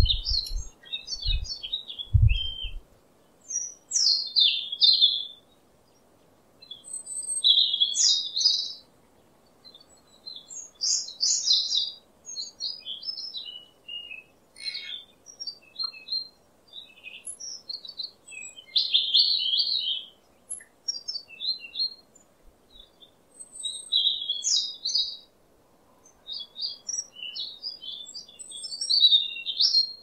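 A songbird singing: short, varied phrases of high notes, one every second or two with brief pauses between them. A few low thuds sound in the first two seconds.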